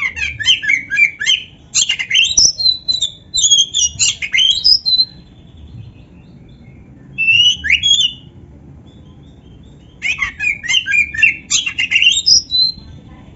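Oriental magpie-robin (kacer) singing loud, rapid runs of varied whistled and harsh notes, in three bursts with short pauses between: a long run, a brief phrase about seven seconds in, and another run near the end. Its song is filled with learned canary phrases, as a trained master-song bird's.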